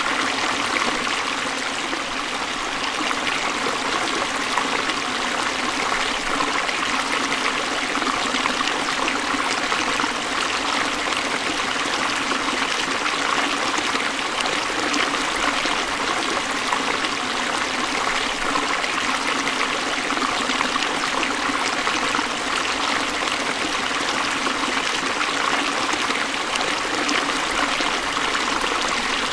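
Forest stream flowing over rocks, a steady rush and trickle of water with no pauses or changes.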